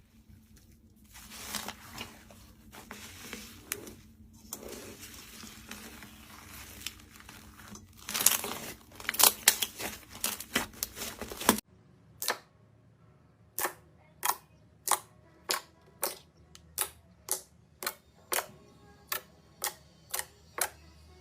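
Slime being squished and worked by hand, with crackling, popping noises that grow denser and louder past the middle. After a sudden cut, a series of sharp single slime pops follows, coming faster toward the end.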